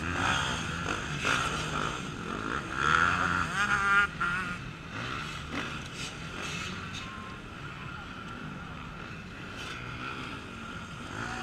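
Off-road racing motorcycle engines running and revving, with a louder stretch of revving about three to four seconds in.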